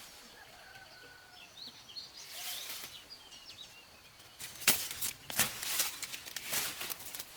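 Sugarcane stalks being chopped and rustled, a run of sharp strikes starting about halfway, with small bird chirps before them.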